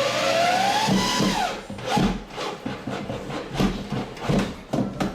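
Power drill driving a screw into wood: the motor whine rises and falls with the trigger for about a second and a half, then comes a run of irregular knocks and taps.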